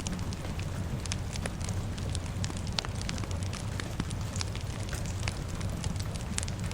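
Fire crackling, with many sharp pops scattered over a steady low rumble, mixed with a soft hiss of rain.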